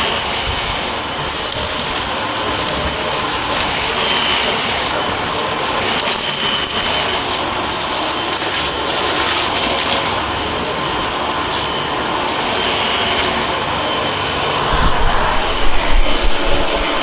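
Dyson vacuum cleaner motor running steadily at full power, drawing about 1,100 watts. A burst of low rumbling comes in near the end.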